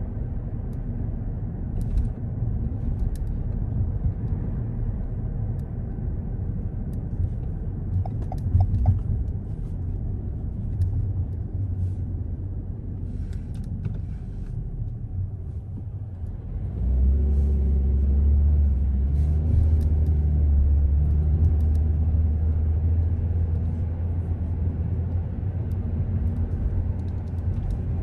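Car driving through city streets: a steady low road and engine rumble. About halfway through, a louder low drone sets in and holds.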